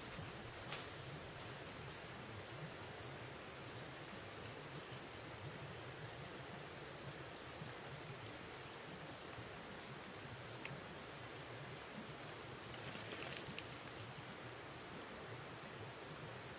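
Steady outdoor background hiss with a continuous high-pitched insect drone. There are a few faint clicks, and a short patch of rustling about thirteen seconds in.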